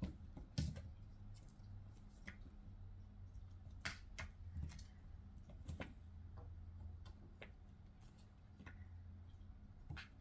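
Faint, irregular light taps and clicks of a kitten playing at a curtain, over a low steady hum.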